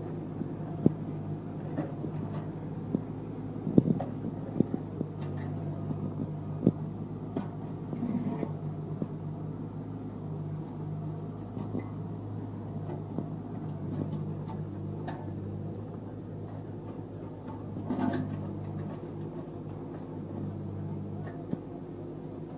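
Hydraulic excavator's diesel engine running steadily, with scattered sharp knocks and clanks from the machine working; the loudest knock comes about four seconds in.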